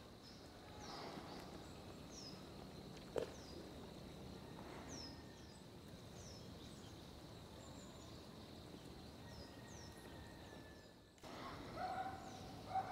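Quiet outdoor background with a bird giving short, high chirps, about a dozen spread out irregularly. There is one sharp click about three seconds in.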